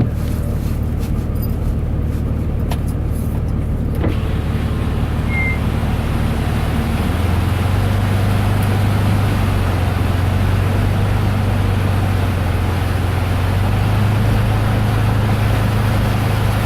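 Pickup truck driving, heard from inside the cab: a steady engine hum under a rushing hiss of road noise that grows louder about four seconds in. About seven seconds in the engine note steps up as the truck picks up speed.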